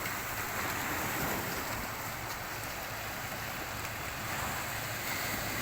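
Mediterranean Sea waves washing on the shore, a steady noisy wash, with wind rumbling on the microphone.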